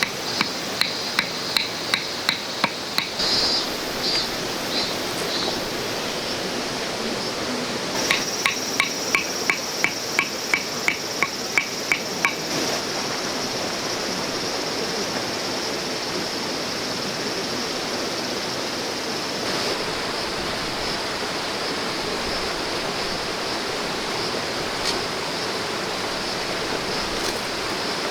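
Hammer strikes in steady runs of about two a second, one run at the start and another a third of the way in, over the steady rush of a flowing stream.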